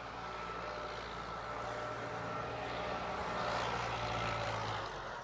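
A distant engine droning steadily, swelling a little toward the middle and easing off near the end, over a hiss of wind.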